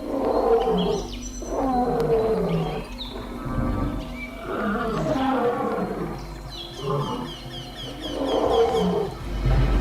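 A lion snarling and growling in repeated bursts, one every second or two, with a run of short, high chirping calls in the second half.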